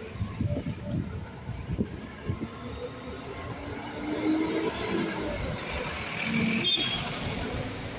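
A city bus running and moving through the terminal, with irregular knocks and rattles in the first few seconds and a brief higher hiss about six to seven seconds in.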